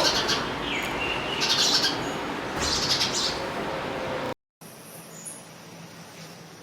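Bird chirping in short high-pitched bursts, three times over about three seconds, over a steady outdoor hiss. Then the sound cuts out abruptly and a much quieter background follows with faint distant chirps.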